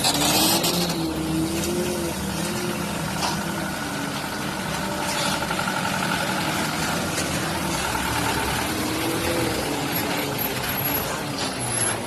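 Truck engine running with its pitch rising and falling, over a steady wash of road noise and a few sharp knocks.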